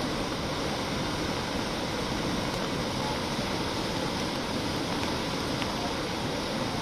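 Swollen river in flood: a steady, loud rush of churning water with a deep rumble underneath.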